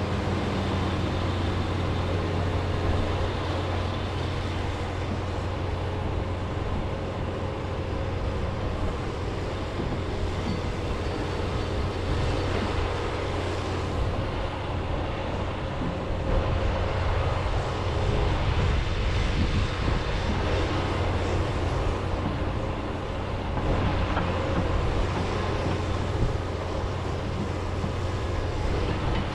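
John Deere 210G excavator's diesel engine running steadily with a deep hum while the machine digs, the sound swelling slightly now and then as it works.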